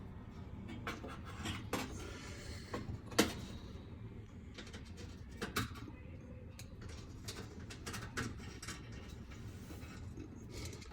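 Scattered light clicks and knocks of screws being tightened and metal parts handled during reassembly of a gas range, with one sharp click about three seconds in.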